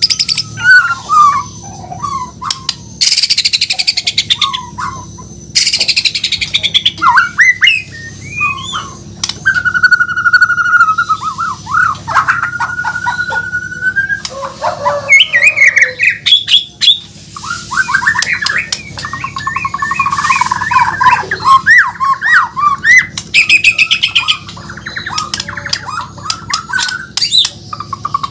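White-rumped shama (murai batu) singing a long, varied song: clear whistles, slurred and rising notes, and rapid trills, broken by harsh rasping phrases.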